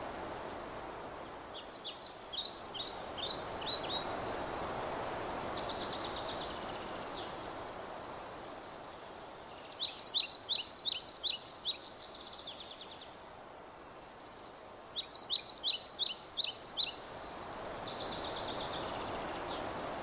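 A songbird sings a quick run of short, sharp high notes, each sliding down in pitch, three times about six seconds apart. Each run is followed by a fainter buzzy trill. Behind it is a steady hiss of outdoor background noise that swells and fades.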